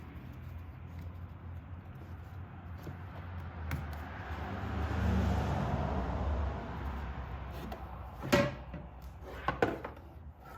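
Handling noise from fitting a DIY R-134a recharge kit's hose coupler onto the car's low-pressure AC service port: a rustling swell, then a few sharp clicks and knocks as the coupler is pushed on.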